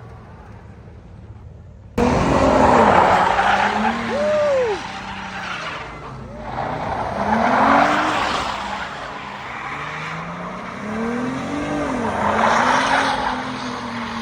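A car sliding with its engine revving up and down and its tyres screeching. The screech swells and fades in waves about every four to five seconds. The sound jumps suddenly louder about two seconds in.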